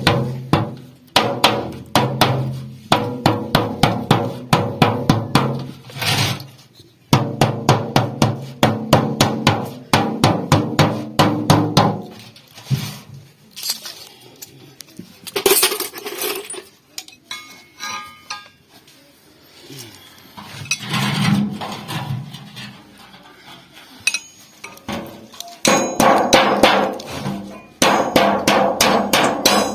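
A hammer beating sheet metal salvaged from an old refrigerator, several blows a second in long runs, the metal ringing under each blow. Midway the blows thin out for about ten seconds, then pick up fast again.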